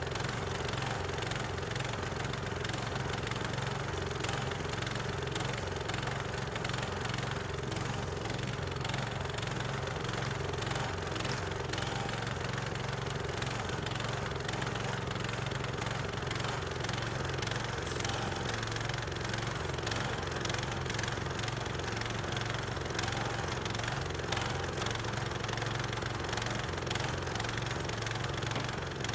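Small gasoline engine of a Harbor Freight band sawmill running steadily at an even speed, with no change in pitch or loudness, as the mill saws a box elder log.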